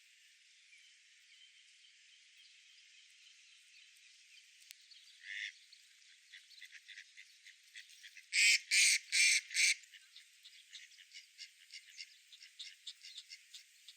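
A duck quacking loudly four times in quick succession partway through, over a steady hiss, followed by a run of quieter short calls.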